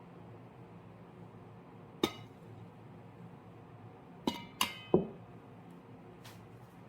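Dishes clinking: four sharp, ringing clinks of hard kitchenware, one about two seconds in, then three in quick succession near the middle, the last the loudest.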